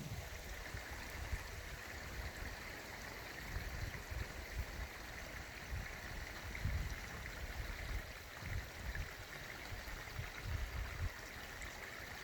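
Flowing stream water, a steady rushing and trickling, with irregular low rumbles underneath.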